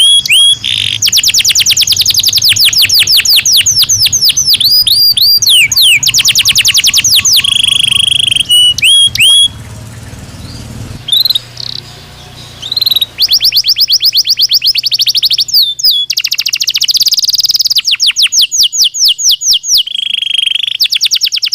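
Belgian canary singing: fast rolling trills of rapidly repeated notes mixed with held, steady whistled notes. The song pauses for about three seconds near the middle, then resumes with more rapid trills.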